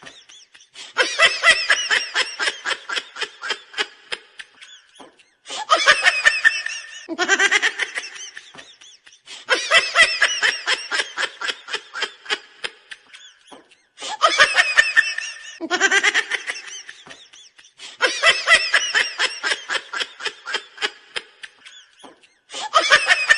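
Meme laughing sound effect on a loop: a burst of rapid laughter every few seconds, each bout starting loud and trailing off in quick, shrinking pulses.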